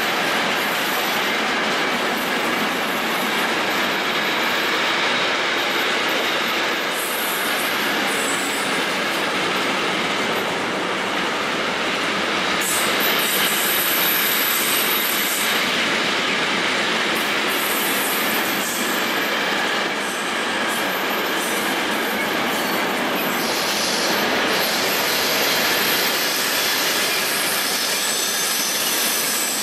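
Container freight train passing, its wagons rumbling and clattering steadily on the rails. A high-pitched wheel squeal comes and goes over the running noise, strongest about halfway through and again near the end.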